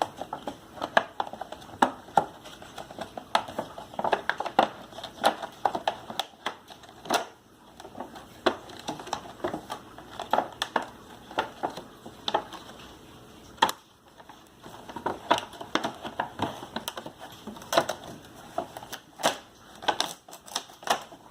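Plastic and cardboard toy packaging being cut and pulled open: irregular sharp clicks, snaps and crinkles, several a second, with short pauses.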